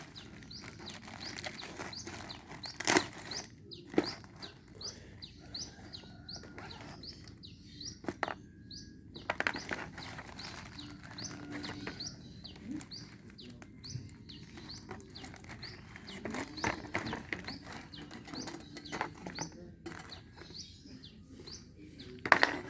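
A small bird chirping over and over in quick short chirps, several a second, with a few sharp knocks. The loudest knocks come about three seconds in and near the end.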